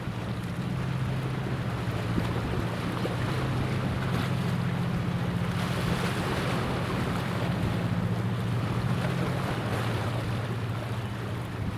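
Low, steady drone of a ship's engine over water, with wind noise on the microphone and the wash of waves.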